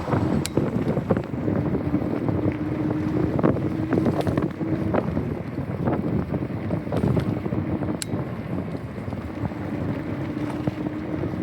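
Wind buffeting the microphone of a camera riding along on a moving bicycle, over a low road rumble. A few sharp clicks or rattles come through, and a steady hum comes and goes twice.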